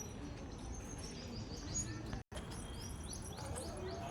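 Small birds chirping: many short, quick downward chirps repeating over steady outdoor background noise, with a brief cut to silence a little over two seconds in.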